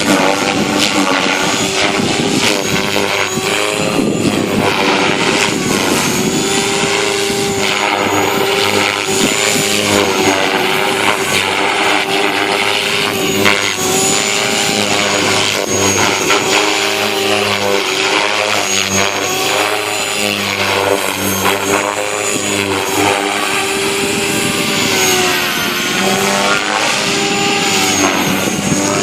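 Align 500X electric RC helicopter in flight: a steady whine of motor and rotor blades whose pitch wavers up and down as it manoeuvres.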